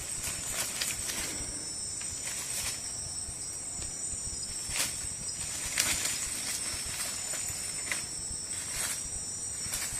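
Night insects in the rainforest calling in a steady, high-pitched chorus. Scattered short crackles and rustles cut in several times, the sharpest about six seconds in.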